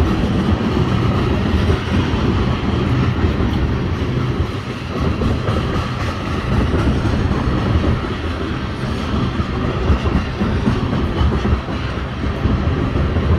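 Freight train tank cars rolling slowly past, at about 20 mph: the steel wheels run over the rails with a steady rumble.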